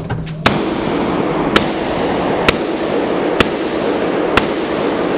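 Five gunshots, about a second apart, at an indoor shooting range, over a steady background rush of noise.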